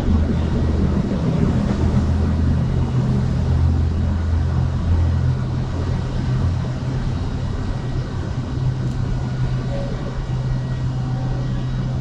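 Steady low engine hum of motor traffic, with a constant drone and no distinct events.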